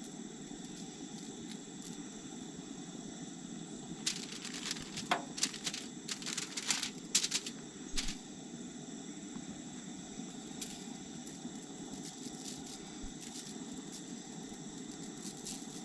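Crickets chirring steadily, with a cluster of short clicks and rattles of handling from about four to eight seconds in.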